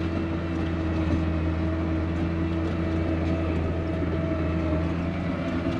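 Old snowcat's engine running steadily under load as it pushes through deep snow, a constant low hum that holds an even pitch.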